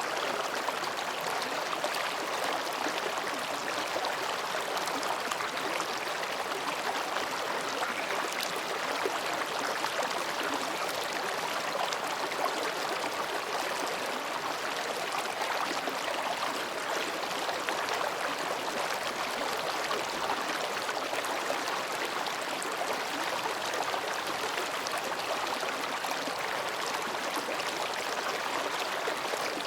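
Mountain stream babbling steadily as it flows between rocks.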